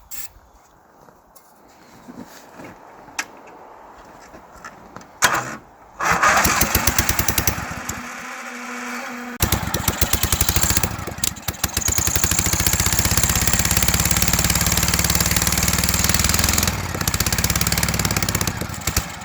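Briggs & Stratton 12.5 HP V-twin lawn tractor engine, just swapped in, being started: it catches about six seconds in, runs rough and nearly drops off for a moment, then picks up and runs steadily before dying away at the end.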